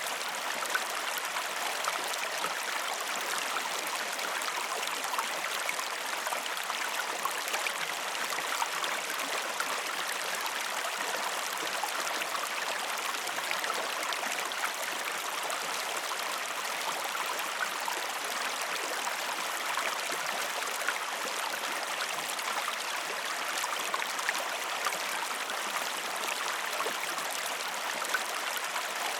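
River water flowing steadily over rocks: a continuous babbling rush with small splashes.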